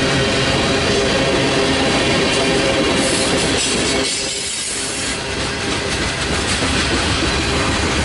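Freight train cars rolling past, with steel wheels running on the rails and clattering over the joints. The sound dips briefly about four seconds in, then picks up again.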